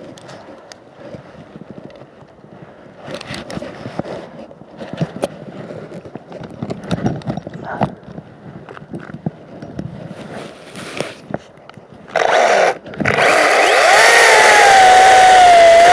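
Scattered knocks and rustling, then about twelve seconds in a Makita 18V cordless chainsaw starts with a short burst, stops for a moment, and runs with a loud, steady electric whine whose pitch wavers slightly.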